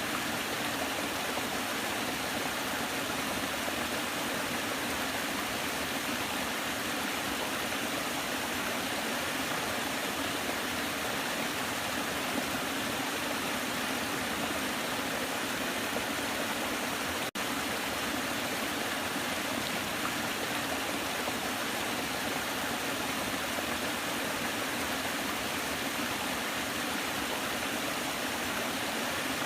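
Waterfall rushing steadily, a constant hiss of falling water with little low rumble. A split-second dropout breaks it just past the middle.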